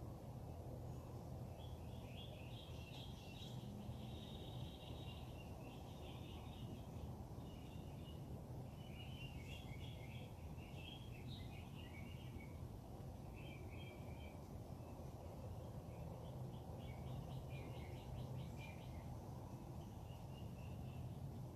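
Songbirds singing faintly in a string of jumbled chirping phrases over a steady low background rumble.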